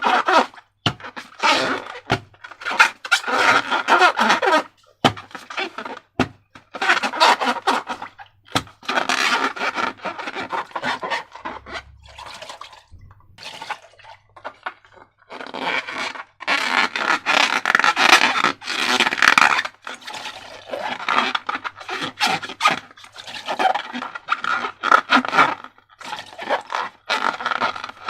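Sticky slime being worked by hand, wet squelching and scraping in irregular bursts with a few sharp clicks.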